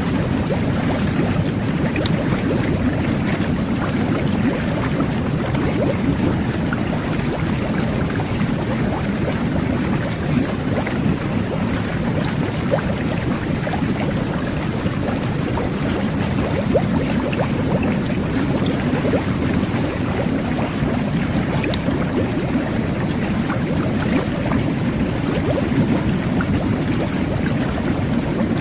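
Jet bath churning a tub full of water: a steady, full bubbling and gurgling with many small crackles of bursting bubbles.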